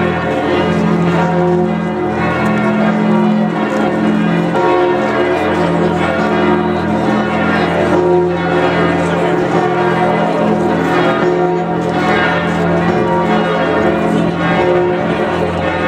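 Notre-Dame de Paris cathedral bells pealing together, many sustained tones overlapping into a continuous ringing.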